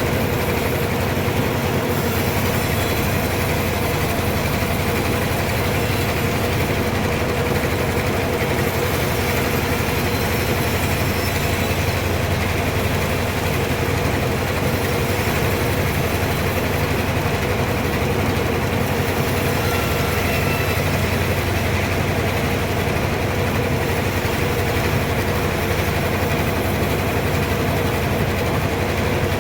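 Sawmill machinery running with a steady, unbroken drone.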